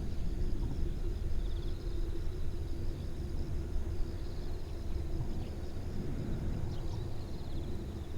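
Steady low rumble of a distant jet airliner with a faint constant hum, while insects trill in short, repeated high pulses.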